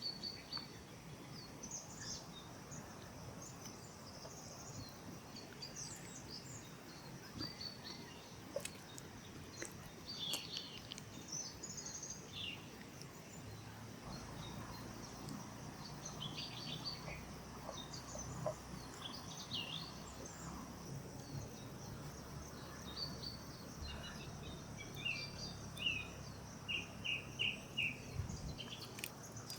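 Outdoor ambience of wild birds chirping in scattered short calls over a steady high insect drone, with a quick series of about five repeated bird notes near the end.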